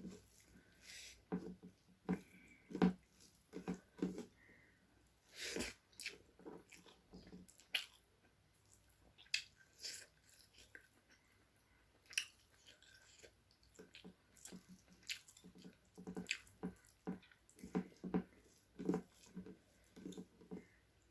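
Close-miked chewing and eating sounds of a person eating chicken curry with rice, coming as short irregular clicks and smacks about once or twice a second.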